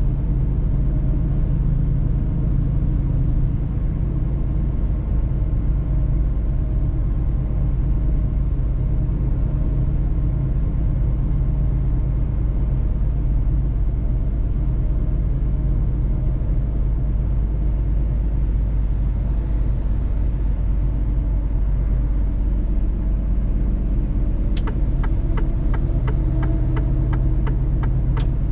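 Mercedes-Benz truck on the move: a steady low engine and road rumble. Near the end comes a run of even ticks, about three a second, lasting a few seconds.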